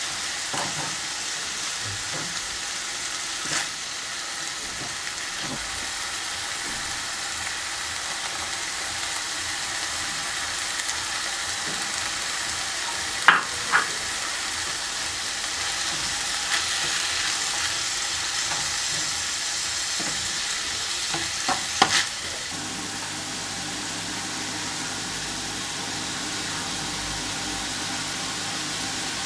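Food sizzling as it fries in a pan and is stirred, with a few sharp knocks of the utensil against the pan about halfway through and again near two-thirds of the way in.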